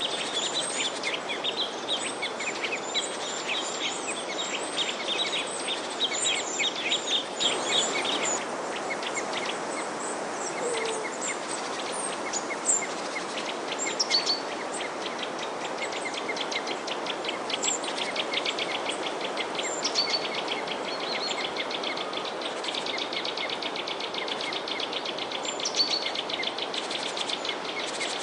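Many small birds chirping and twittering in a dense, rapid chorus over a steady rushing background noise.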